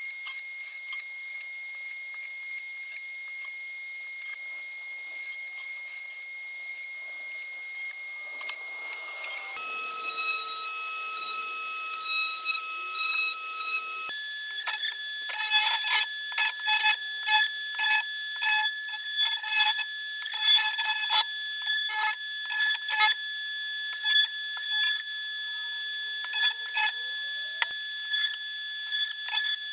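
High-pitched whine of a small power tool motor running steadily. Its pitch shifts twice, and over the second half it is broken by many short rasping bursts as the tool bites into the work.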